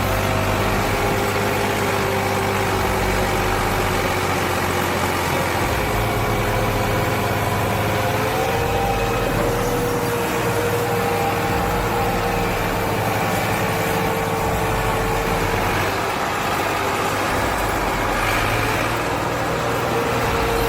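Massey Ferguson 260 tractor's 60 horsepower Perkins diesel engine running steadily under load while pulling a loaded trailer. Its pitch rises a little about eight seconds in.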